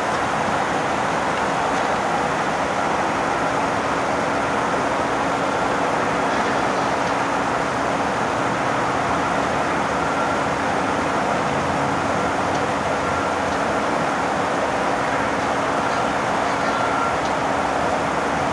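Amtrak passenger train pulling away, its diesel locomotives and rolling cars giving a steady noise with a faint steady hum under it.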